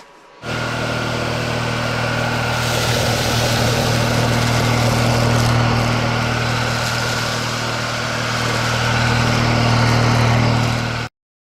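Lubluelu cordless stick vacuum running steadily, a motor hum and whine with rushing air. It starts abruptly about half a second in, grows a little louder near the end, and cuts off suddenly.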